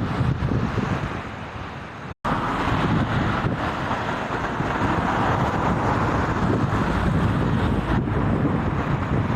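Storm wind buffeting the microphone, with a loud, steady rushing noise. The sound cuts out completely for a moment about two seconds in, then returns with a brighter hiss.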